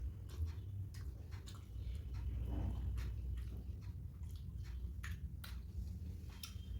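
A person chewing soft poori with curry close to the microphone: wet mouth clicks and smacks at an irregular pace.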